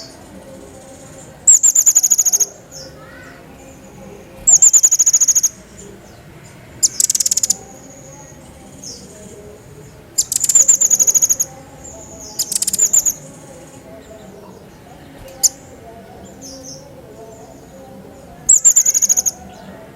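A cerecet jawa songbird in full song: loud, very high, fast trilled bursts, each under a second, given about six times with pauses of a few seconds between them.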